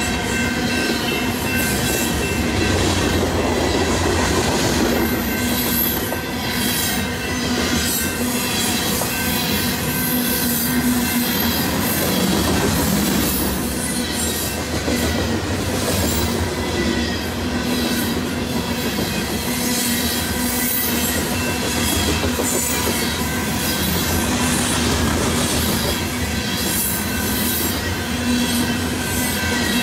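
Union Pacific covered hopper freight cars rolling steadily past, their wheels rumbling and clicking over the rail joints with a sustained high-pitched wheel squeal held throughout.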